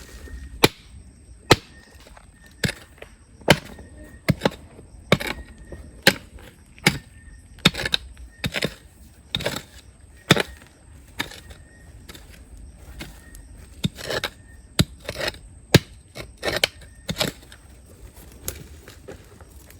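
A digging tool striking rock and gravel in a riverbed, about one blow a second, some blows leaving a brief metallic ring.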